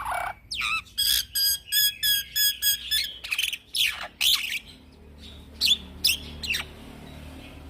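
Young black-winged myna singing a varied run of calls: a falling call, then a quick string of repeated notes at about four a second, then several whistles and three sharp downward-sweeping calls.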